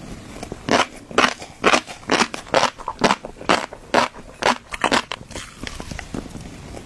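Fish roe crackling and popping in a run of sharp crunches, about two a second, thinning out near the end.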